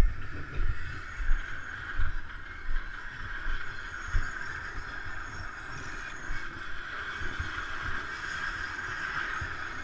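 Motocross bikes running on the track at a distance, blending into a steady drone. Irregular low thumps hit the microphone during the first few seconds.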